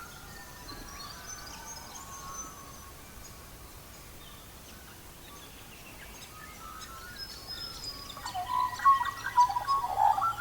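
Birds singing and chirping, several short whistled phrases over a faint steady hiss, getting louder and busier near the end.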